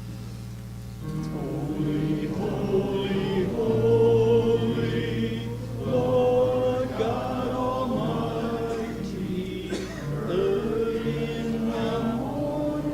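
Congregation singing a hymn together with instrumental accompaniment; the voices come in about a second in, over the instrumental introduction.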